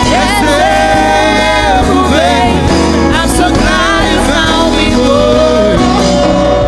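Live gospel worship band playing, with a lead melody that bends and slides in pitch over a steady keys-and-bass accompaniment.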